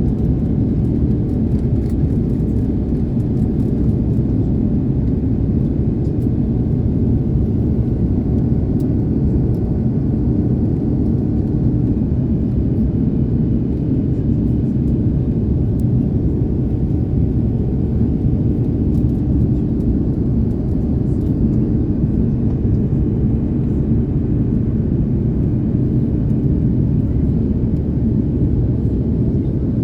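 Airbus A330neo cabin noise: the Rolls-Royce Trent 7000 engines and airflow give a steady, even low rumble with a faint hum on top, heard from inside the cabin.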